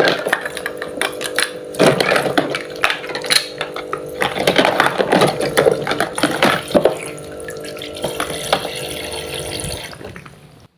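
A small battery-powered toy pump motor hums steadily while water runs and splashes, with frequent plastic clicks and taps from handling the toy kitchen set. The hum stops shortly before the end.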